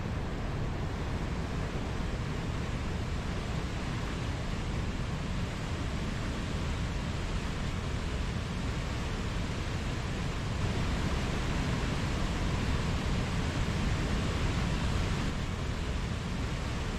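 Mountain stream flowing over rocks: a steady rushing of water, swelling a little in the middle of the stretch.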